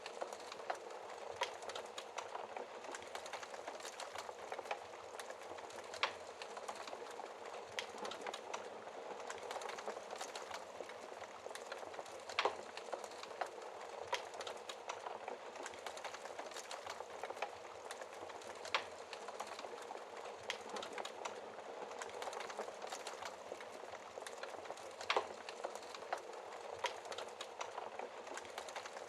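Wood fire burning in a fireplace: a steady low hiss and rustle of flames with continual small crackles and a louder sharp pop from the logs every six seconds or so.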